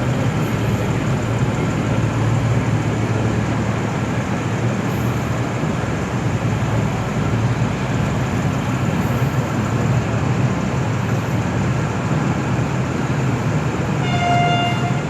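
Diesel train engine running steadily with a low drone, and a single short horn toot near the end.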